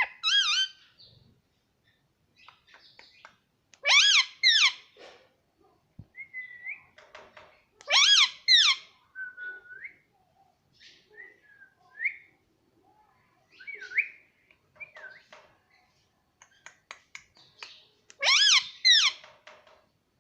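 Baby parrot calling: several loud bursts of quick, high chirps, with softer short whistles and chirps in between.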